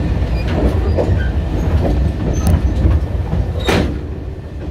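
Sangi Railway passenger car Kuha 1802 running, heard from inside the car: a steady low rumble of wheels on track with a few sharp clacks, the loudest about three-quarters of the way through.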